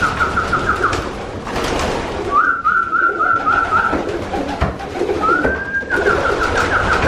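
Racing pigeons cooing in the loft, with a high, quavering whistle that rises and then holds for a couple of seconds, three times, and scattered light clicks.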